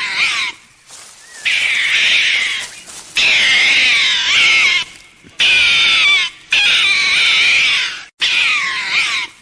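An animal giving a run of about six shrill, wavering cries, each lasting about a second, with short pauses between them.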